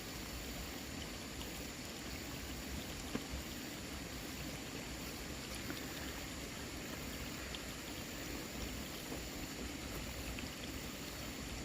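Steady rush of running water, with a small click about three seconds in.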